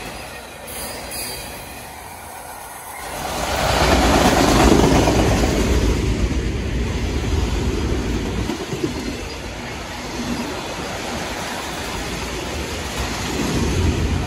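A train passing close by: quieter for the first three seconds, then a sharp rise in noise as it arrives, followed by a steady rumble of the cars rolling past.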